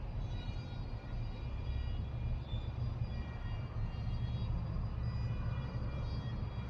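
Steady low rumble of a jet airliner flying at high altitude, the Boeing 777-300ER's engines heard faintly from the ground.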